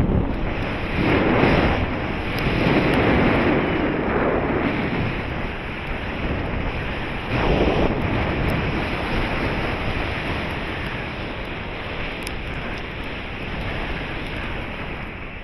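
Airflow buffeting the microphone during a paraglider flight: a steady rushing wind noise, with stronger gusts in the first few seconds and again about halfway through, easing toward the end.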